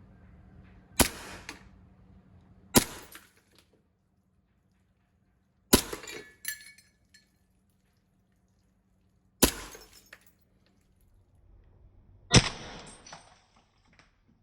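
Airsoft Colt M1911 pistol: five sharp cracks a few seconds apart, each with a short rattling tail.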